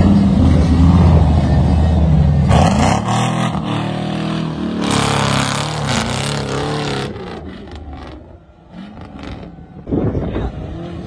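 Off-road 4x4 SUV's engine working hard as it climbs a steep dirt slope, its pitch rising and falling with the throttle. The sound changes abruptly a few times and drops lower for a few seconds after about seven seconds.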